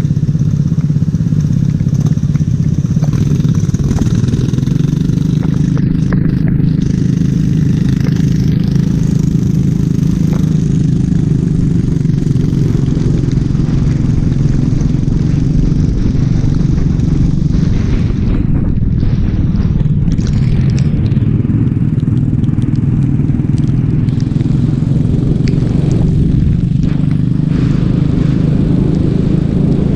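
Go-kart engine running steadily and loud, with small rises and falls in pitch.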